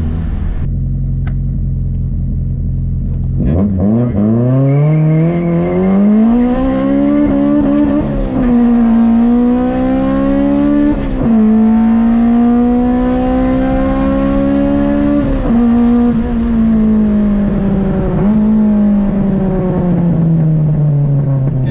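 Honda K20 four-cylinder on individual throttle bodies, heard from inside the car. It runs low and steady, then a few seconds in goes to hard acceleration, revving up to around 8,000 rpm. Its pitch climbs and snaps back three times at the upshifts, then falls steadily as the car eases off near the end.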